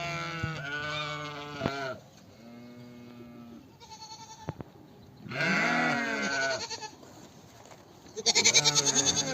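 Livestock bleating: about four long, wavering calls, one fainter, the last with a fast quaver.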